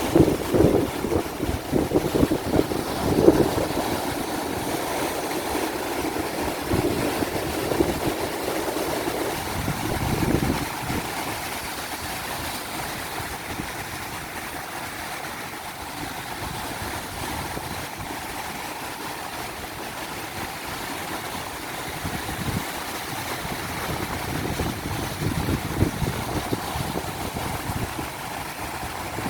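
Ocean surf washing on a beach with strong wind buffeting the microphone, in gusts that are heaviest in the first few seconds, again about ten seconds in and near the end.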